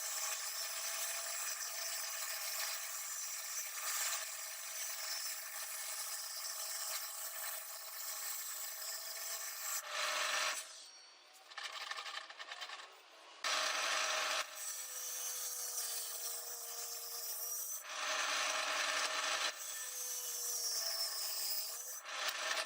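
A hand or power tool working wood, a steady rasping rub. It breaks off and resumes abruptly a few times in the second half.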